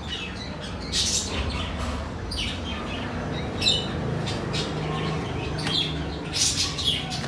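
Birds chirping and squawking, with short high-pitched calls repeated several times.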